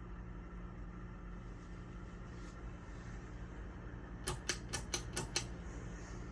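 Hampton Bay Havana ceiling fan motor running without blades on low speed with a steady hum and a little bearing noise. About four seconds in, six quick sharp clicks: the pull chain and its switch being worked to change the fan to medium speed.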